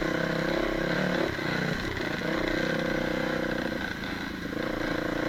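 Dirt bike engine running at low to moderate revs under varying throttle. The pitch dips and picks up again a few times, and holds steady in between.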